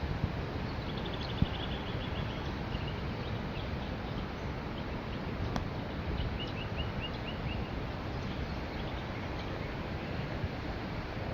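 Birds calling: two short runs of rapid, repeated high notes, a few seconds apart, over a steady low background rumble. A couple of brief knocks sound in the first second or two.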